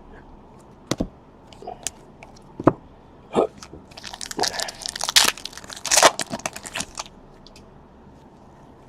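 Trading cards being handled: a few sharp separate clicks, then a dense burst of crackly clicking and rustling from about four to seven seconds in.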